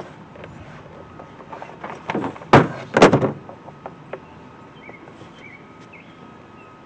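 Hands working plastic air-intake parts loose under a truck's hood: a few light knocks and rattles, then two sharp clunks about half a second apart a little before the middle, followed by quieter handling.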